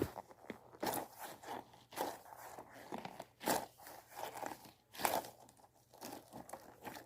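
Slippery slime being squished and pressed by hand, giving a series of irregular wet crackles and squelches, about one a second.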